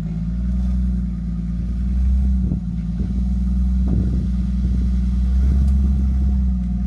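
Vehicle engine running steadily at a low, even pitch, with a few short knocks and clatters about two and a half and four seconds in.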